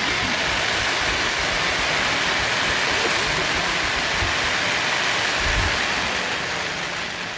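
Fireworks giving a steady, loud rushing hiss that builds up, holds and eases off near the end, with a few faint low thumps underneath.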